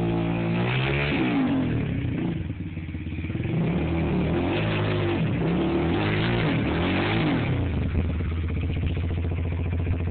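Dirt bike engine revving up and down repeatedly, its pitch rising and falling several times as the throttle is worked.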